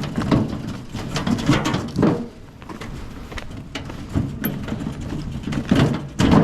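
Split firewood pieces knocking and clunking against each other as they are stacked into a display: several sharp knocks at irregular intervals, the loudest near the end.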